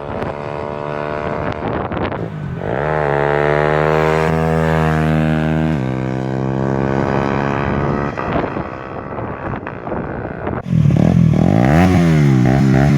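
Aprilia RS4 125's single-cylinder four-stroke engine through a LeoVince aftermarket exhaust, running steadily, then revved up and held for about three seconds before dropping back. Near the end it gets louder and is blipped several times in quick succession.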